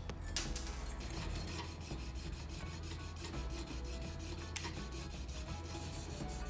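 Steady abrasive rasping and rubbing, like hand filing, over quiet background music.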